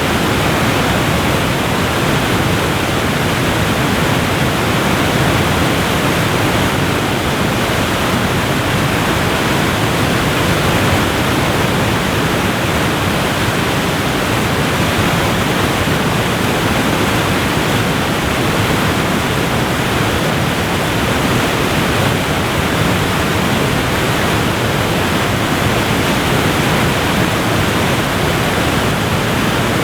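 Waterfall rushing in a loud, steady, even roar of falling water, with no breaks or changes.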